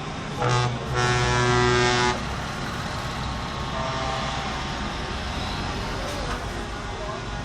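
Truck air horn sounding twice: a short blast, then a longer one of about a second. Steady truck engine and traffic rumble runs underneath.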